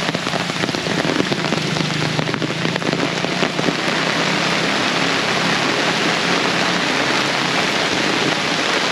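Heavy tropical rain pouring down in a dense, steady hiss, with a low steady hum underneath for most of the first seven seconds.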